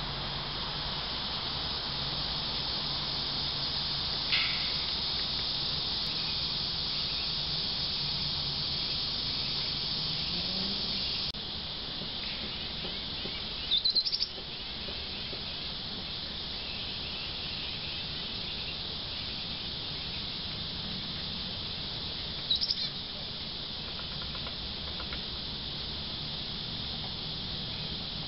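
Steady high-pitched drone of insects, broken by a few short bird chirps: one about four seconds in, a louder cluster near the middle, and another about two-thirds of the way through.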